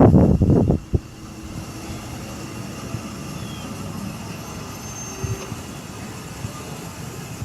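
A heavy gust of wind buffets the microphone in the first second and ends with a sharp click. After that there is a steady low outdoor rumble, much like distant traffic or aircraft.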